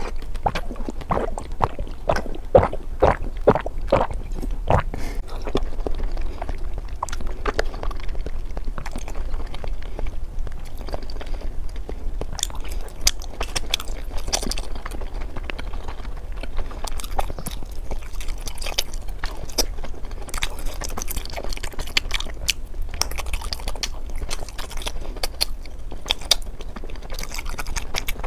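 A person eating close to the microphone, ASMR-style: continuous chewing with crunchy bites and sharp wet mouth clicks throughout.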